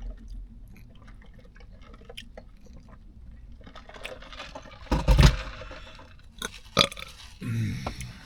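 A person eating a sub sandwich close to the microphone: soft chewing and mouth smacks, a loud burp about five seconds in, a sharp smack near 7 s, then a short hummed 'mm'.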